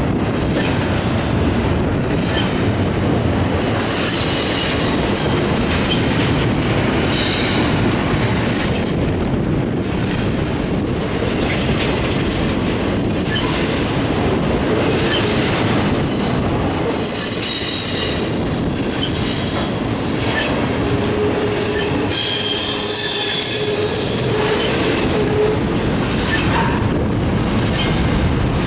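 Freight cars of a CSX double-stack intermodal train rolling past steadily, wheels clacking over the rail joints, with high-pitched wheel squeal that comes and goes, strongest in the second half.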